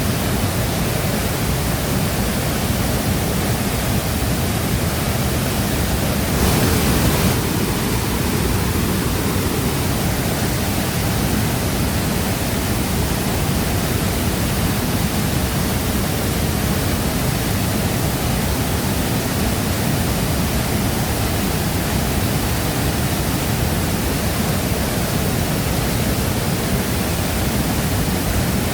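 Shifen Waterfall pouring: a steady, dense rush of falling water, briefly louder for about a second around seven seconds in.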